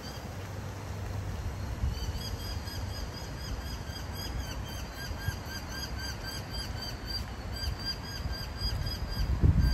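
A bird calling over and over with a short rising-and-falling chirp, about three times a second, over a steady low city rumble. A louder low rumble swells near the end.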